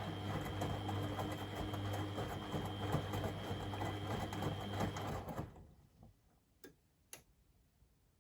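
Beko WMD 46160 washing machine turning its drum during the wash: the motor runs with a steady hum and a thin whine, then stops about five seconds in. Two light clicks follow about a second later.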